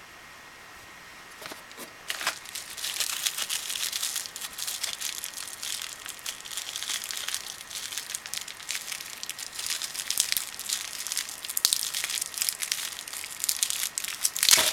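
Packaging being handled and crinkled during an unboxing, a dense crackling with many sharp clicks. It starts about two seconds in, after a faint steady hiss.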